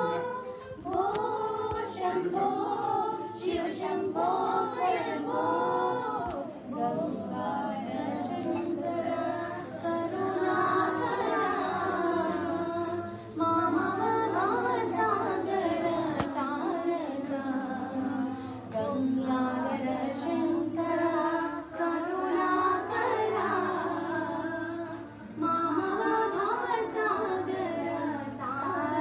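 Several voices singing a slow, continuous melody, mostly female, with a steady low tone beneath it at times.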